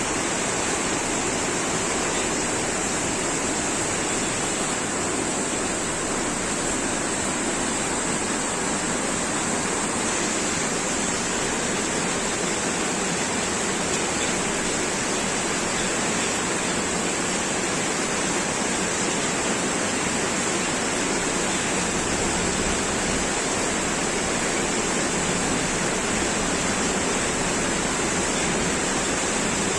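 Heavy rain pouring down steadily, a dense even hiss that stays unchanged throughout.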